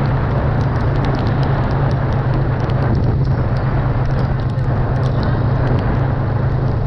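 Off-road vehicle engine running at a steady drone while driving through wet mud, with many small scattered clicks over it.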